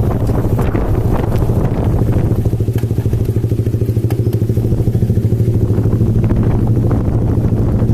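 Motorcycle engine running at a steady speed, a low pulsing drone with some wind noise on the microphone.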